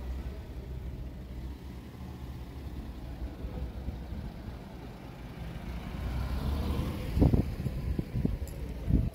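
A car's engine running close by as a steady low rumble, swelling louder near the end, with a few short low thumps.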